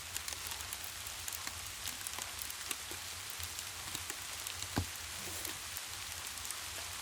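Steady rain with many small drop ticks over a continuous low rumble, and one louder knock about five seconds in.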